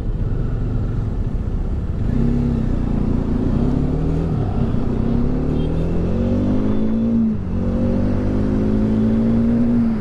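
Bajaj Dominar 400's single-cylinder engine accelerating through the gears. Its pitch climbs and drops back at each upshift, then holds steady over the last couple of seconds. Underneath is a steady low rumble of wind and road noise.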